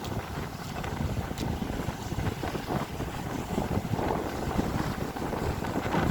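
Wind buffeting the microphone at the sea: a steady, rough low rumbling rush that swells and eases irregularly.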